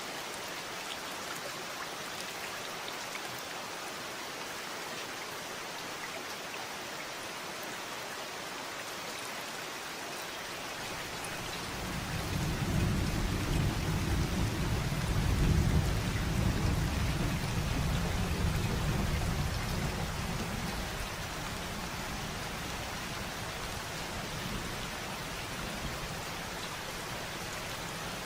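Steady rain falling, with a long low rumble of thunder that builds about ten seconds in, peaks midway and fades away over several seconds.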